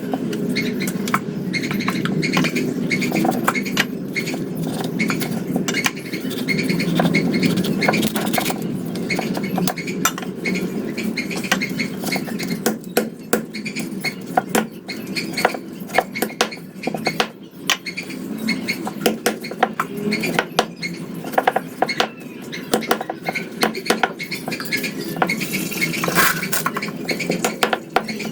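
Kitchen utensils and dishes knocking and clinking against each other again and again, at an irregular pace.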